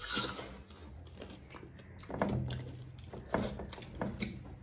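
Close-up mouth sounds of people chewing a meal of rice and pork eaten by hand, with a few short sharp smacks about a second apart.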